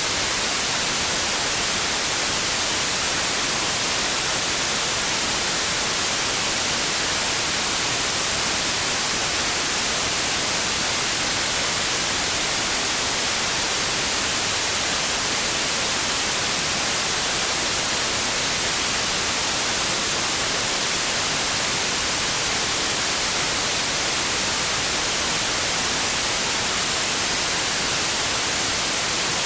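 Steady white noise: an even hiss, brightest in the high frequencies, unchanging throughout.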